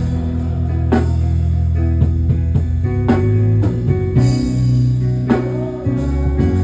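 Live band music with electric bass, guitar and drum kit, the drums hitting about once a second over sustained low bass notes.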